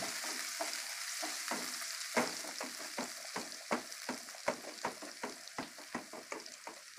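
Grated garlic frying in hot ghee in a kadhai, a steady high sizzle, while a wooden spatula stirs it, scraping and knocking against the pan about two to three times a second from about two seconds in.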